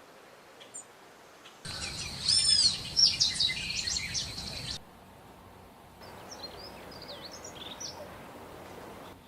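Songbirds calling. A loud run of quick, arching high notes starts about two seconds in and cuts off suddenly midway. After a short gap, a fainter passage of quick high chirps follows.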